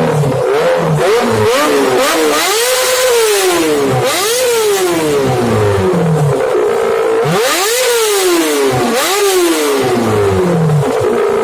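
Small petrol engine idling and being revved several times, each blip rising quickly in pitch and falling back to idle.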